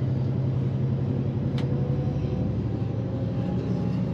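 Tour coach's engine running steadily, heard from inside the cabin as a low drone, with one faint click about one and a half seconds in.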